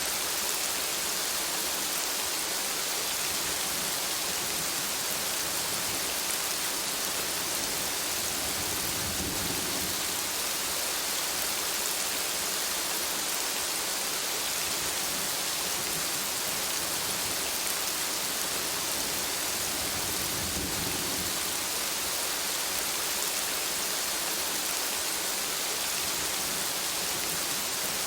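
Steady rain falling as an even hiss, with two soft low rumbles of distant thunder, about nine and twenty seconds in.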